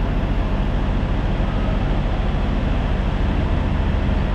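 Peterbilt 579 semi truck's diesel engine idling with a steady low drone.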